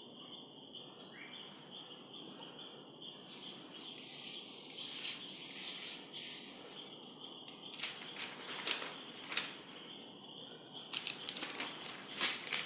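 Water poured onto a sheet of print-free absorbent pet paper for an absorption test, a soft trickling hiss, then crinkling and crackling as the paper is handled, over a steady high-pitched pulsing tone.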